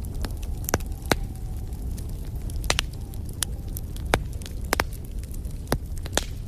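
Wood fire burning in a fireplace: a steady low rumble of flames with sharp, irregular crackles and pops, about one or two a second.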